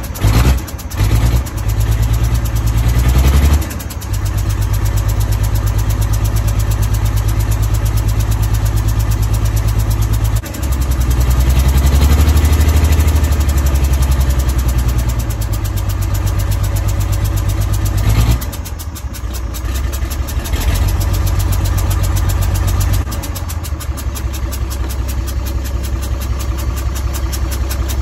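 1980 Bedford TK truck engine, not run in a while, sputtering and catching in the first few seconds, then running steadily. It is revved up for a few seconds around the middle, dips briefly, and settles back to an idle.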